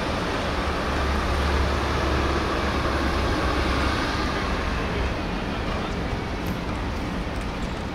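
Steady outdoor background noise with a low rumble, easing a little about five seconds in.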